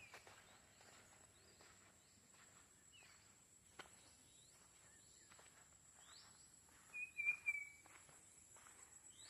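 Faint forest ambience: a steady high-pitched drone, scattered short bird chirps, and soft footsteps on the forest floor. About seven seconds in, a bird gives a short warbling call, the loudest sound here.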